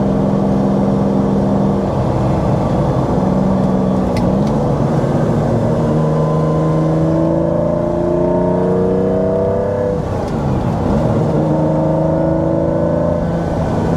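1992 Lamborghini Diablo's mid-mounted 5.7-litre V12 with a straight-piped exhaust, running under way. It holds a steady note, climbs in pitch from about six to ten seconds in, dips briefly and picks up again, then settles to a steady note.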